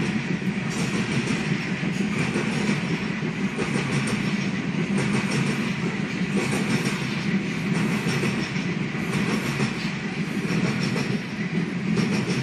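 Coal train's hopper cars rolling past: a steady rumble of steel wheels on rail, with clicks as the wheels pass over rail joints.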